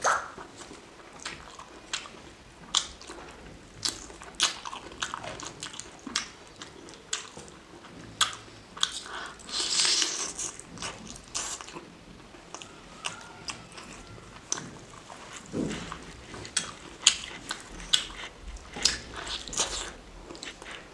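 Close-miked chewing and biting: irregular wet clicks and smacks of a mouth eating curried rice and chicken. About ten seconds in there is a louder patch of sound as a large curry chicken drumstick is bitten into.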